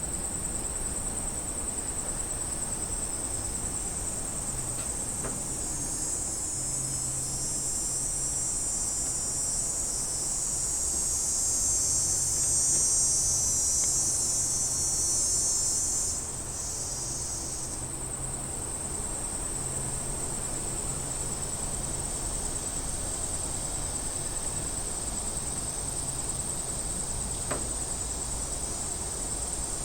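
Cicadas buzzing in a steady, high-pitched drone that swells louder in the middle, then partly falls away about halfway through.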